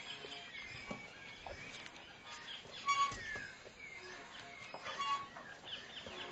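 Birds chirping and calling: many short rising and falling notes, with a louder cluster of calls about three seconds in.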